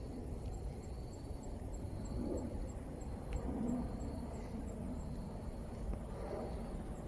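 Outdoor ambience dominated by a steady low rumble, like wind on the microphone, with faint indistinct sounds in the middle and a faint regular high ticking about twice a second.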